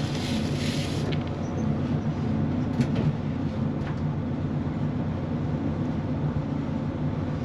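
Inside a CrossCountry Voyager diesel train running at speed: a steady low drone from its underfloor diesel engine with rumbling rail noise, a brief hiss at the start and a couple of faint clicks.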